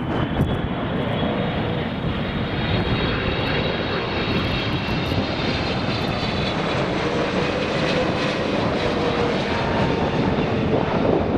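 Airliner engines running loudly as a plane passes, a dense rush with thin whining tones above it that slope slightly down.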